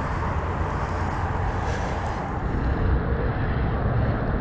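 Steady rush of wind on the microphone with tyre noise from a bicycle riding on a wet trail, a low rumble throughout.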